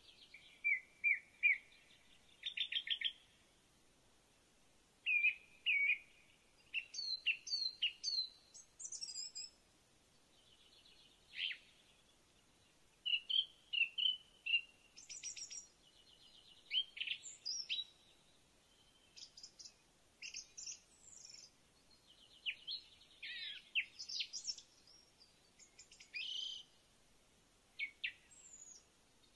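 Birds singing: a string of short, high chirps, quick trills and falling whistles in phrases a second or two long, with brief pauses between them.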